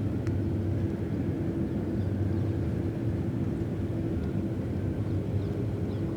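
Steady low engine drone with a humming tone that holds level throughout, with a few faint high chirps above it.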